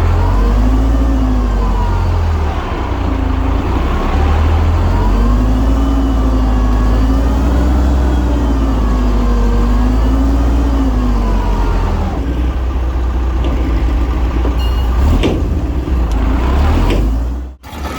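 Heavy diesel earthmoving machinery running under load, its engine note wavering slowly up and down. In the last few seconds a few sharp knocks, then the sound cuts out for a moment just before the end.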